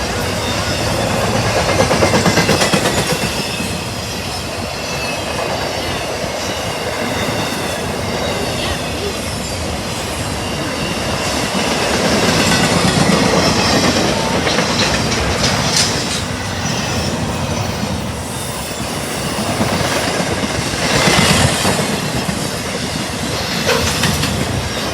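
CSX freight train rolling past, its cars' wheels clacking over the rail joints, with some high wheel squeal.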